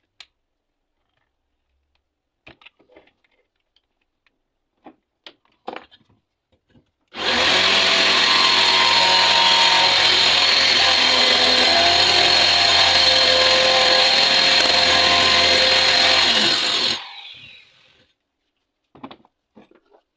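Homemade scroll saw driven by an old washing-machine motor, starting about seven seconds in, running steadily and loudly for about ten seconds, then shut off and winding down. A few light clicks and knocks come before it starts.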